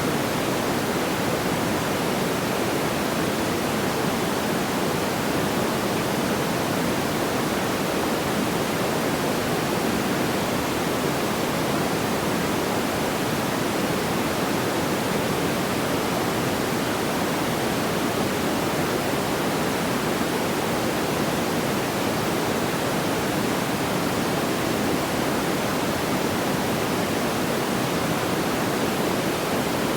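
Steady, even rushing noise, strongest in the low-middle range, without any pops or crackles.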